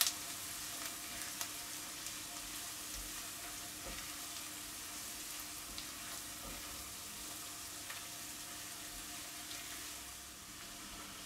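Chopped onion, garlic and ground curry spices frying in a pan over lowered heat with a quiet, steady sizzle, stirred with a silicone spatula that makes a few faint ticks.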